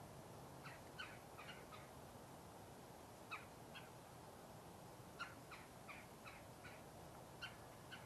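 A bird calling faintly in short runs of quick, harsh repeated notes, four runs in all, over a quiet outdoor background.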